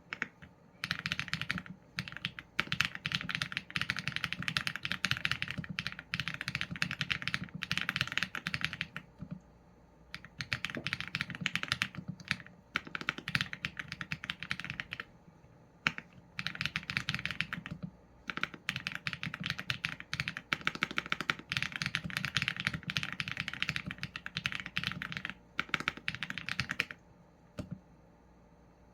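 Typing on a Qsenn A75 mechanical keyboard with Leobog Graywood v4 linear switches and PBT keycaps. Runs of rapid keystrokes are broken by short pauses, with a longer pause near the end.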